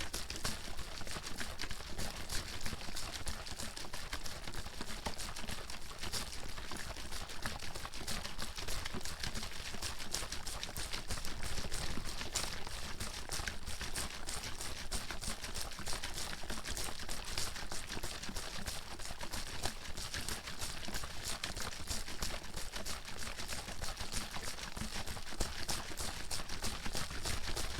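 Water bottle shaken hard and without pause: water sloshing inside, with a rapid, dense clatter of knocks that never lets up.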